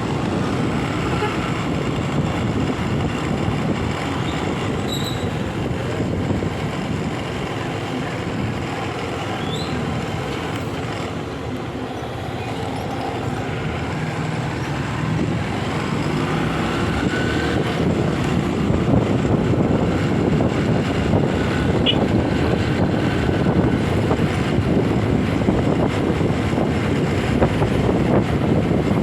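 Motorcycle on the road, engine and road noise mixed with wind rumbling over the phone's microphone; it gets a little louder over the second half.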